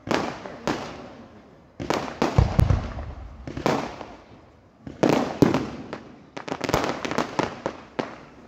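Aerial fireworks going off in quick succession: sharp bangs of bursting shells, each trailing away in an echo. There is a deeper boom about two and a half seconds in, and a rapid run of crackling reports near the end.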